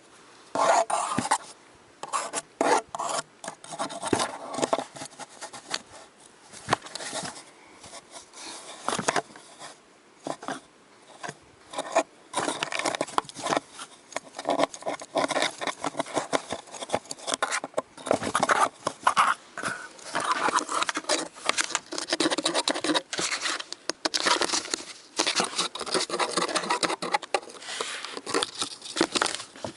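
A pet scratching and rubbing at a cardboard box: an irregular run of rasping scrapes, now faster, now pausing.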